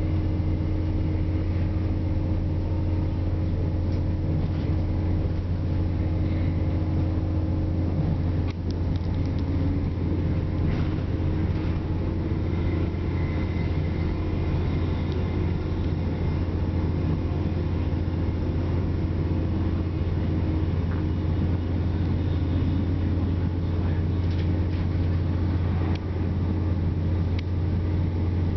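A Class 168 diesel multiple unit running at speed, heard from inside the passenger saloon. A steady low drone with track noise and a few brief clicks.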